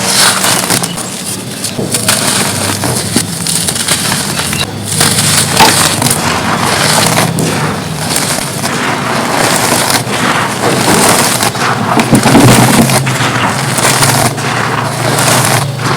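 Cones of dry, gritty red dirt being crumbled and crushed, a continuous close-up crunching and crackling with a few brief breaks.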